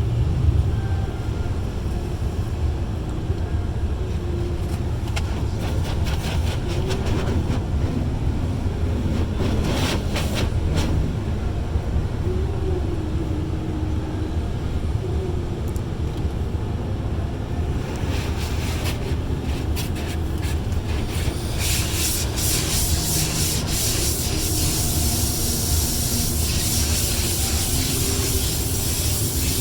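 Automatic car wash brushes scrubbing over the truck, heard from inside the cab, over a steady low rumble. The hiss gets louder and brighter about two-thirds of the way through.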